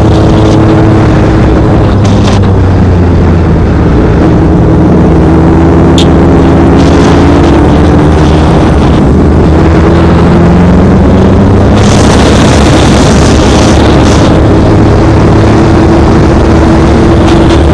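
Honda CBR600F inline-four engine running under way, its pitch slowly rising and falling with the throttle, over a loud, continuous rush of noise.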